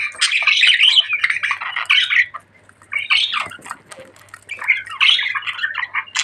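Budgerigars warbling and chattering in rapid squawks and chirps, with a brief lull a little before the middle.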